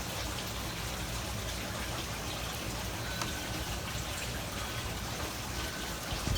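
Steady rushing outdoor noise, with a few faint, brief chime notes in the second half, like wind chimes.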